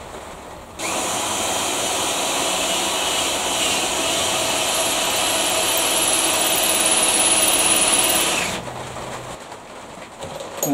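Electric hand drill running under load for about eight seconds, starting and stopping abruptly, as it drills out a worn hole in a lathe part.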